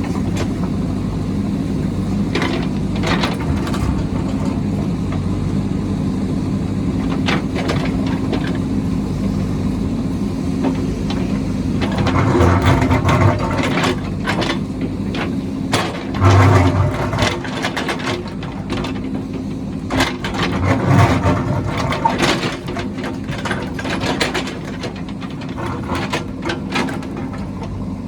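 A heavy diesel construction machine running steadily, with repeated clanks and scraping of metal and earth, and the engine working harder in short surges several times in the second half.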